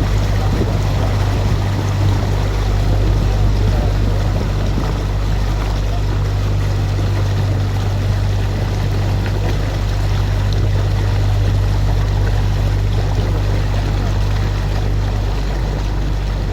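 Canal tour boat's motor running steadily under way, a constant low hum under an even wash of water and wind noise.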